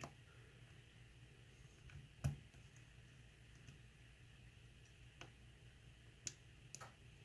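Faint clicks of a lock pick working the pins of a pin-tumbler lock under a tension wrench, with one sharper click about two seconds in and a few softer ticks near the end.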